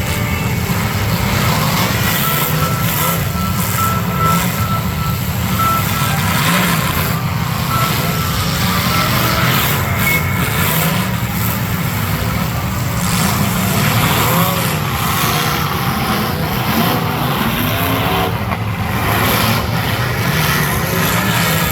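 Demolition derby car engines running and revving together, loud and continuous, with pitch rising and falling as the drivers work the throttles.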